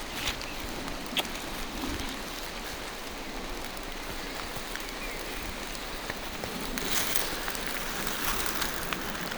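Steady rain falling through forest trees, with scattered drops ticking. The rain patter grows louder about seven seconds in.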